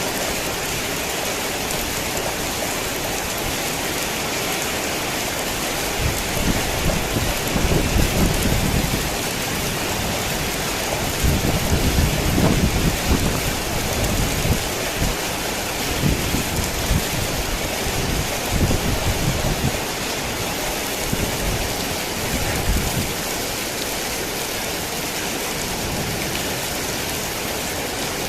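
Heavy rain falling steadily. From about six seconds in, low rolling rumbles of thunder come and go several times, dying away before the end.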